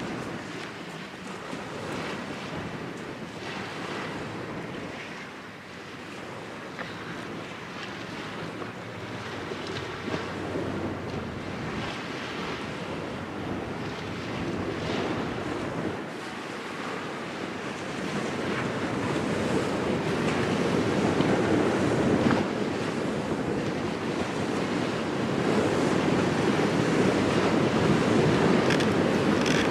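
Wind blowing on the microphone over small waves washing onto the shore. It grows louder in the second half.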